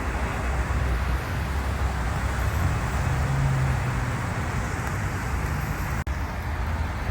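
Low, steady rumble of a jet airliner's engines under a hiss of rain, with a brief break about six seconds in.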